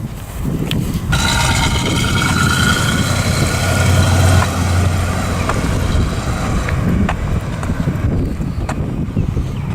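1972 Chevrolet Nova's engine running, a steady low rumble. From about a second in, a higher whine sits over it for a few seconds and then fades.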